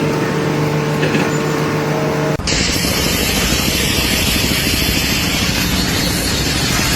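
A steady machine hum, like a motor running, then after a sudden cut about two and a half seconds in, a loud steady rushing noise.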